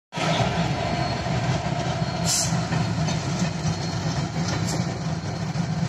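Diesel-hauled passenger train running past: the locomotive's engine and the coaches rolling on the rails make a steady heavy rumble. Two brief high hisses come about two and a half and four and a half seconds in.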